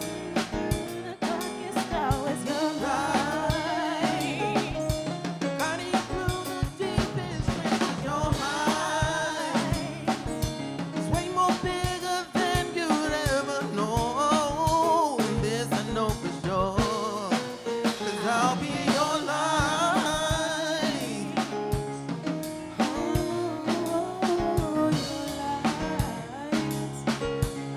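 Live soul band playing: a drum kit keeps a steady beat with snare and rimshot hits under a gliding, wavering melodic line and sustained chords.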